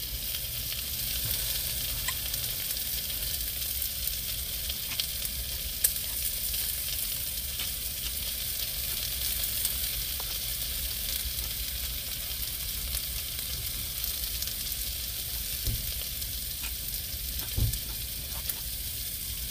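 Meat sizzling steadily as it cooks, a continuous hiss with a few faint clicks and taps.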